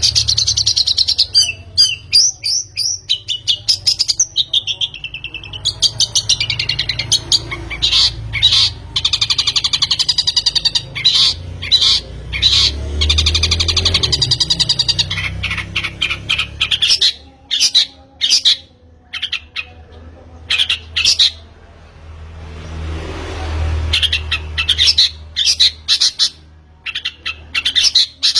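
Long-tailed shrike (pentet) singing in fast runs of harsh chattering and squawking notes, broken by short pauses, over a low rumble.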